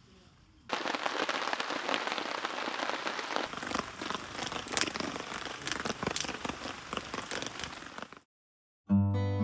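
Rain falling steadily, with many sharp drop taps, starting less than a second in and cutting off suddenly near the end. After a brief silence, acoustic guitar music begins.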